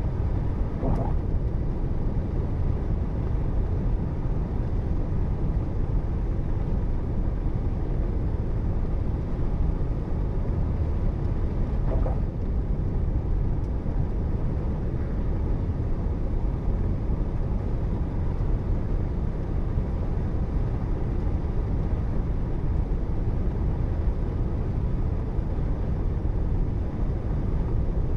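Steady road and engine noise of a car driving, picked up by a dashcam microphone inside the cabin, with two faint brief sounds, one about a second in and one about twelve seconds in.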